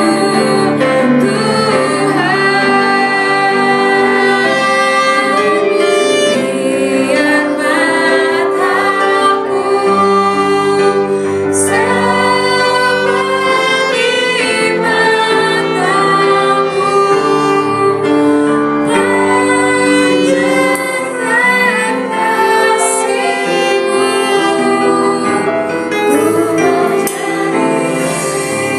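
Church worship band playing: a saxophone carrying the melody over electric keyboard, bass guitar and drums, with a woman singing.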